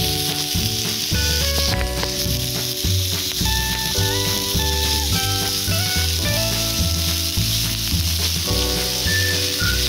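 Pork belly sizzling and frying on a seasoned cast-iron cauldron-lid griddle, a steady hiss. Background music with a melody and bass notes plays over it.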